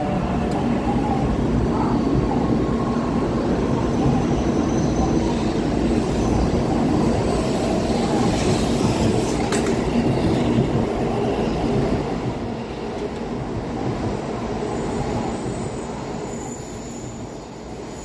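N700-series Shinkansen train rolling into the platform as it brakes to a stop: a steady rumble of the cars passing, growing quieter after about twelve seconds as it slows, with a faint high squeal near the end.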